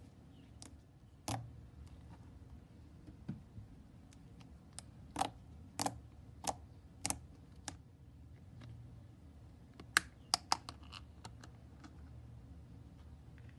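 Pink fluffy slime being pressed and kneaded by fingers, giving sharp clicks and small pops as air pockets squeeze through it. The clicks come singly at first, then about one every half second, then three in quick succession.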